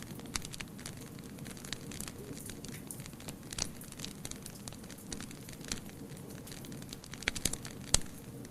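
Wood fire crackling, with irregular sharp pops and snaps over a steady low hiss of burning; a cluster of louder pops comes near the end.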